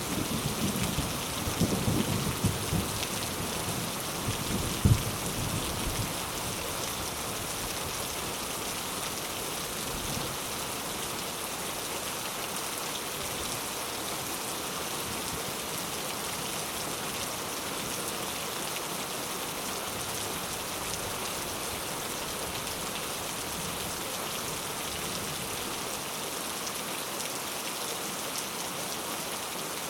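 Steady heavy rain hissing down, with the last of a thunder rumble dying away over the first few seconds.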